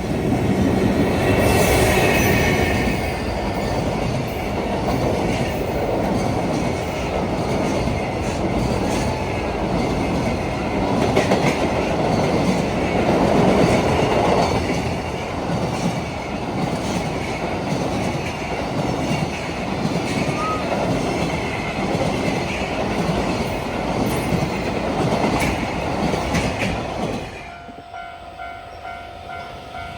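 A train passing close by, its wheels clattering over the rail joints in a loud, continuous run that drops away sharply near the end.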